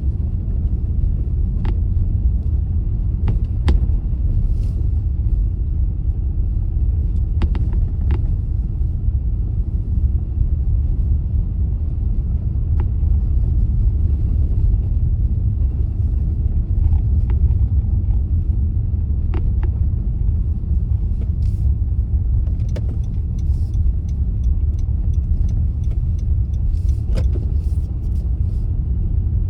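Steady low rumble of a car being driven, with scattered faint ticks and clicks.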